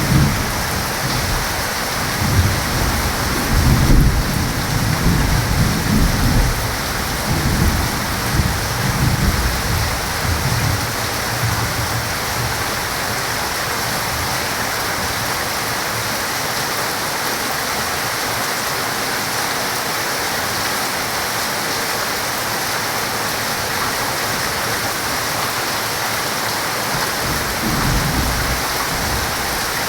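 Heavy rain falling steadily, with low rolling thunder rumbling through the first ten seconds or so and a brief rumble again near the end.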